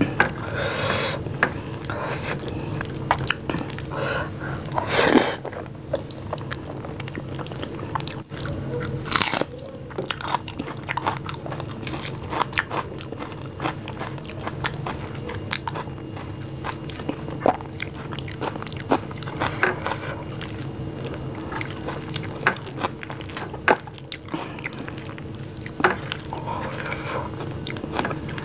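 Close-miked eating sounds: chewing and mouth clicks on rice and mashed vegetable bhorta, with fingers squishing the food together on a plate. A few louder, crunchier bites stand out.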